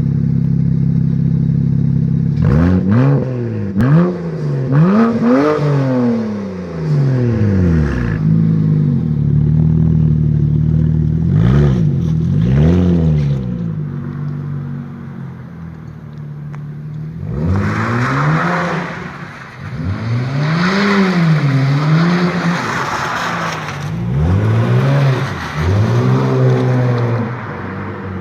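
BMW 335i's N54 twin-turbo inline-six idling through a custom exhaust, then revved in short blips several times, the pitch rising and falling with each, with a rougher, hissier stretch during the later revs.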